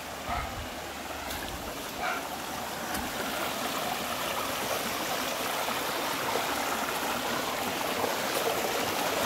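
Stream water running, its rushing growing gradually louder. A few low thumps come in the first three seconds.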